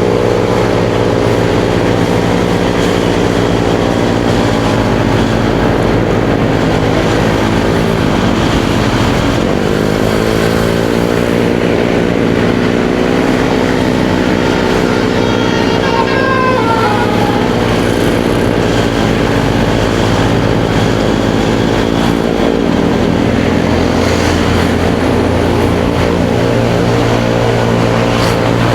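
Motorcycle engine running under way with road and wind noise, its pitch dropping and climbing again twice as the rider eases off and accelerates. About midway a brief high tone slides downward over it.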